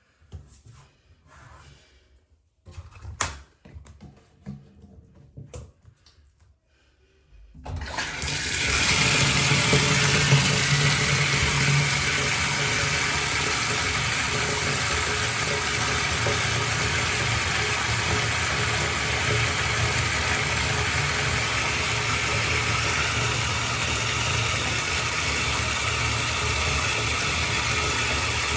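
A few light clicks and knocks, then about eight seconds in water starts to run suddenly in a loud, steady gush and keeps running.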